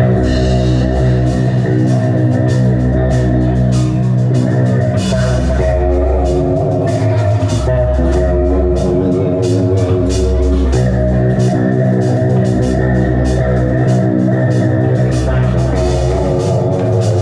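A live metal band playing loud: distorted electric guitars holding heavy chords over pulsing low bass, with drums and cymbals hitting steadily.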